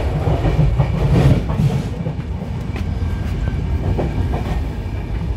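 Passenger express train running along the track: a steady low rumble with a few sharp clacks from the wheels over the rails.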